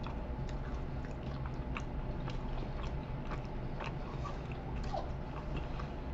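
A person chewing a bite of a mini stroopwafel, with small, irregular crunches from the thin wafer.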